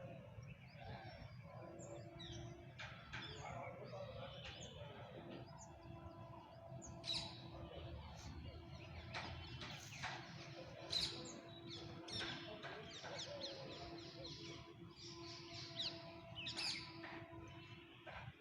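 Birds chirping and calling in short, quick notes, busier in the second half, over a low steady rumble.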